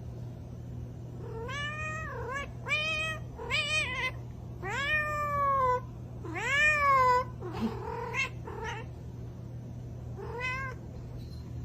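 Domestic cat meowing repeatedly: about seven separate meows that rise and fall in pitch, with the longest and loudest ones in the middle.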